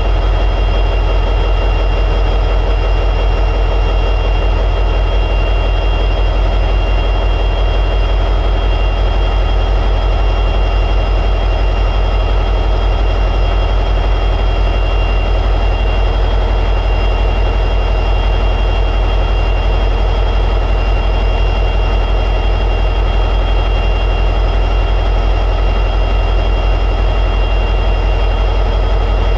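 EMD 710G3B sixteen-cylinder two-stroke diesel prime mover of an SD60E locomotive running steadily in high idle, a deep even drone with a steady high whine above it.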